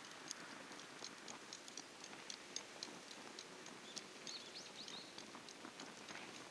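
Wood campfire crackling faintly, with irregular small pops and snaps. A few brief faint chirps come about four seconds in.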